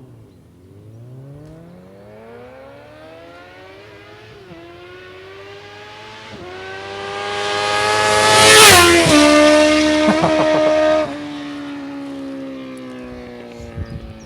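1988 Suzuki GSX-R750's oil-cooled inline-four through a Yoshimura exhaust, accelerating hard toward the listener and upshifting twice as the revs climb. It passes loudest a little past halfway, with a sharp drop in pitch, and the throttle shuts off abruptly about two seconds later as it moves away and fades.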